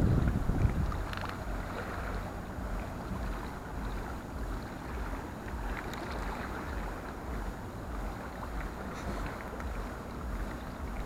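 Wind rumbling on the microphone over a steady outdoor hiss, a little stronger at the very start.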